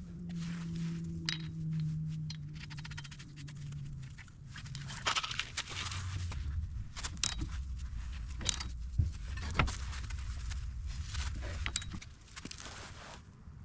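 Metal suspension hardware and hand tools clinking, knocking and scraping during bolt-up work, over a low steady hum.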